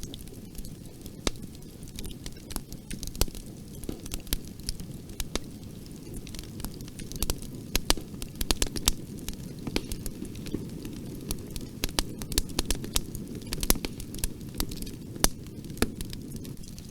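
Bonfire burning: a steady low roar of flames with irregular sharp crackles and pops from the burning wood, coming thicker in the second half.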